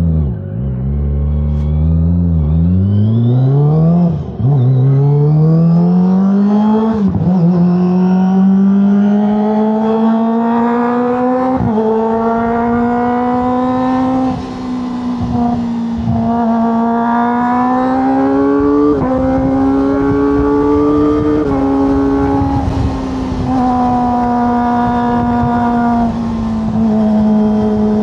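Kawasaki ZX-25R's 250 cc inline-four engine with a Yoshimura exhaust, accelerating through the gears. Its pitch climbs and drops at each upshift, in quick succession over the first few seconds. It then holds a steadier high note, with a few more shifts.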